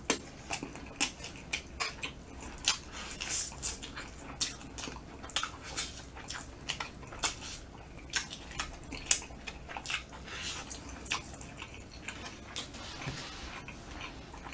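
Close-miked wet chewing and lip-smacking as smoked chicken is bitten and eaten off the bone by hand: a steady run of short, sharp smacks and clicks.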